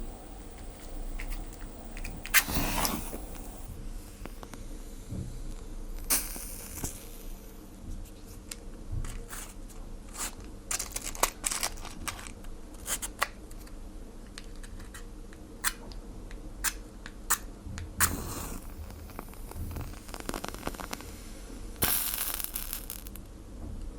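A fire crackling and popping as it is put out, with scattered sharp cracks and four hissing washes of about a second each.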